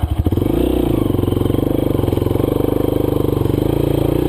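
Honda CRF230F dirt bike's single-cylinder four-stroke engine jumps from a low chug to high revs about a third of a second in, then runs steadily at high revs as the rider gives it throttle to get out of a loose rut where the bike is stuck.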